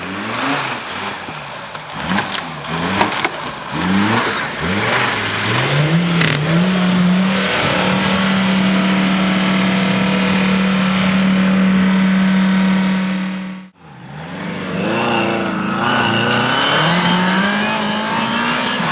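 Off-road 4x4 race vehicle engine revving hard. The pitch rises and falls repeatedly, with a few sharp knocks in the first few seconds, then holds steady at high revs for about six seconds. It breaks off suddenly about 14 seconds in, then starts again and climbs once more.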